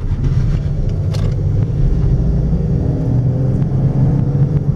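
2012 Chevrolet Caprice police car's six-cylinder engine (3.6-litre V6) pulling as the car accelerates gently at low speed, its pitch rising slowly, heard from inside the cabin over a steady road rumble.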